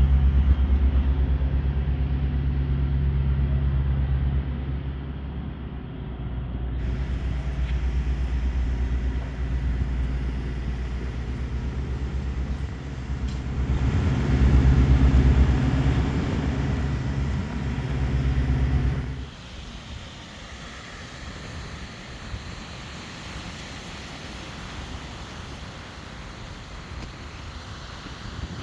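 A steady, low engine hum from a motor vehicle running. About two-thirds of the way through it drops away abruptly, leaving a quieter, even outdoor noise.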